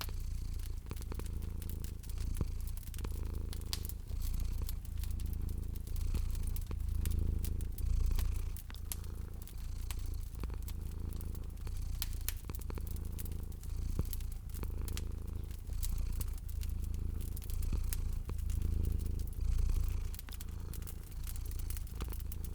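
Domestic cat purring, a low rumble that swells and fades in waves about every two seconds with its breathing, over a wood fire crackling with frequent sharp pops.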